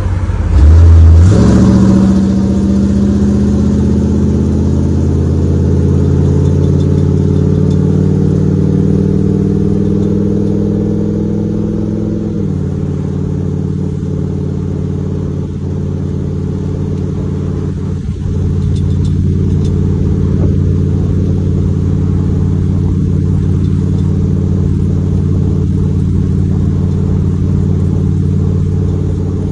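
1975 Ford Bronco's engine, heard from inside the cab. It revs up loudly about a second in, then pulls with its pitch climbing steadily for about ten seconds. The pitch then drops abruptly, and it runs on steadily at cruising speed.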